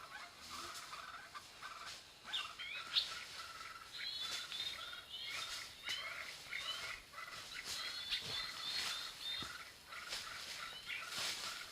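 Small birds chirping: many short, quick calls with rapid up-and-down sweeping notes, overlapping and repeating.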